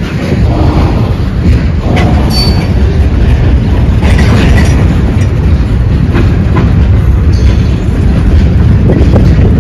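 Freight train of open-top gondola cars rolling past close by: a steady rumble of wheels on rail with scattered clanks, and a brief high wheel squeal about two seconds in.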